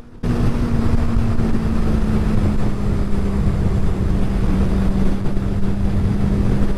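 Motorcycle at highway speed: a steady engine drone under heavy wind rush on the microphone, cutting in suddenly just after the start.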